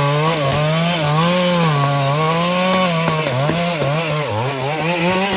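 Stihl MS382 two-stroke chainsaw cutting into a tree trunk, its engine note rising and dipping as the chain bites and eases in the wood.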